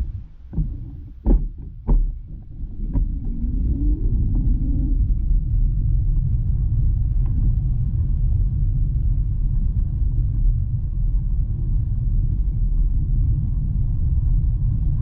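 Himiway Cobra fat-tyre e-bike ridden over rough forest ground: a few sharp knocks and rattles in the first three seconds and a brief wavering whine, then a steady low rumble.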